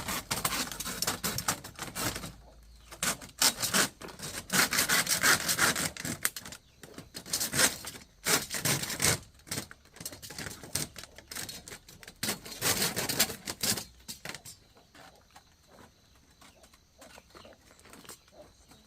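Hand saw cutting wood in quick back-and-forth strokes, in runs with short pauses between them. The strokes fade away about fourteen seconds in.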